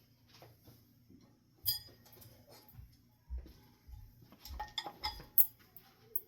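Ceiling fan parts and hardware being handled and fitted together: scattered metallic clinks and a few dull knocks, coming thicker about four to five seconds in.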